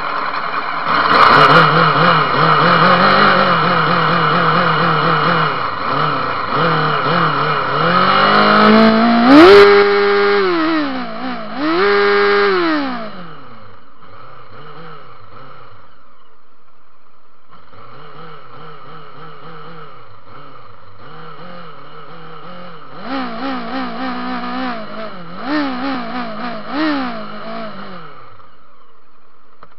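Motorcycle engine running while parked, revved hard twice about ten seconds in, then settling to a quieter idle. Near the end it gets several short blips of the throttle.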